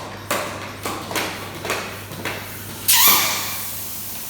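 Air pump being worked in quick strokes, about two a second, forcing air through a nozzle into a plastic bottle. About three seconds in, a sudden loud burst of hissing air fades out over about a second.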